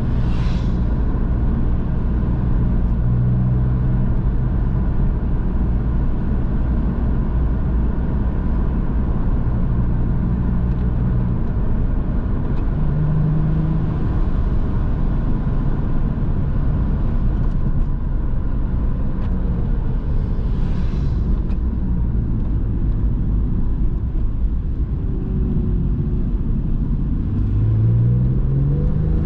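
A Porsche 911's flat-six engine pulling steadily at a constant pitch, with tyre and road noise. Near the end the engine pitch rises as the car accelerates.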